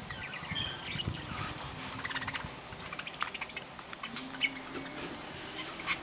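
Small birds chirping in short, scattered calls, with a few sharp clicks among them.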